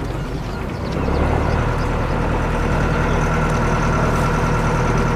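Boat engine idling steadily, a low hum with a steady whine above it, growing louder about a second in.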